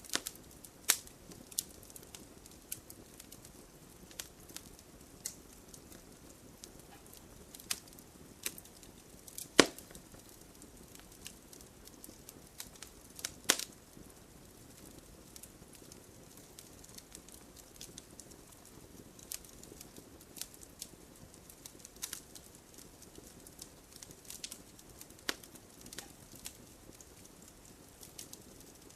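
Wood fire crackling in a fireplace: irregular sharp pops and snaps over a soft steady hiss, with two louder pops about ten and thirteen seconds in.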